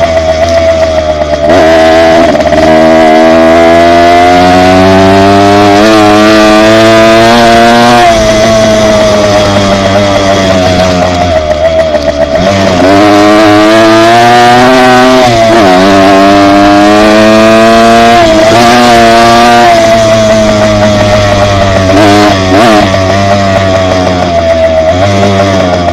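Dirt bike engine running at speed, its revs rising and falling again and again, with several short dips in pitch and level.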